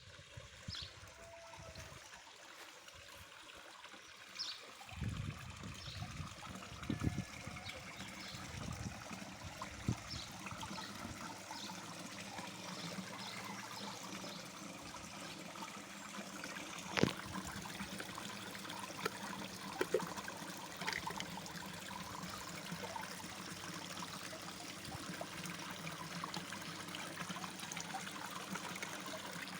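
Garden waterfall trickling and splashing into a koi pond, a steady running-water sound. A few sharp clicks stand out, the loudest a little past the middle.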